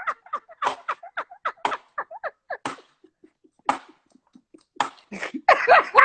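Hard, breathy laughter in quick gasping bursts, thinning out about halfway through and building again near the end.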